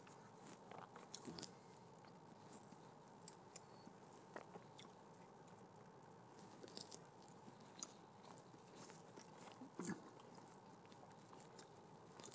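Faint chewing and biting of a McDonald's Big Breakfast, with scattered small mouth clicks and smacks, the strongest about ten seconds in.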